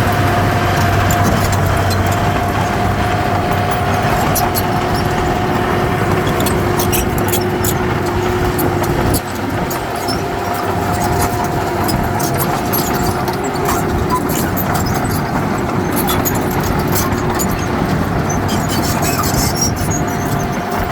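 Heavy diesel earthmoving machinery running steadily, with a constant whine over the engine noise and scattered sharp metallic clicks; the level dips briefly about nine seconds in.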